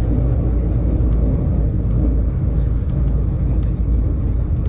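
Passenger train running at speed, heard from inside the carriage: a steady, loud low rumble with a faint high whine above it.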